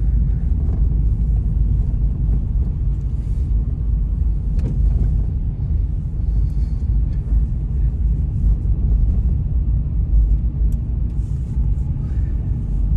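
Strong blizzard wind buffeting the microphone: a heavy, gusting low rumble with faint scattered ticks above it.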